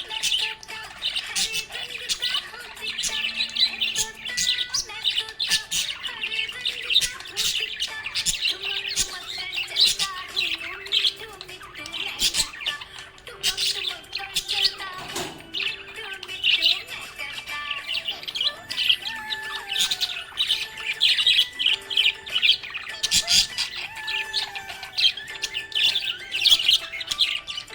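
Budgerigar (budgie) chirping and chattering without a break, in quick short chirps and warbles. Faint steady tones run underneath.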